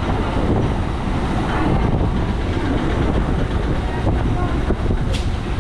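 EMU electric local train running, heard from its open doorway: steady rumble of the coaches with wind buffeting the microphone, as the train runs in along a station platform.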